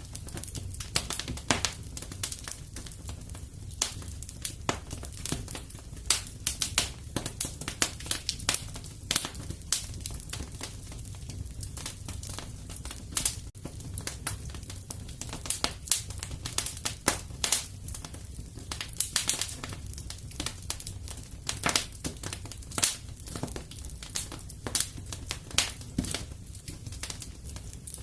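Wood fire crackling in a fireplace: quick irregular sharp pops and snaps, several a second, over a steady low rumble.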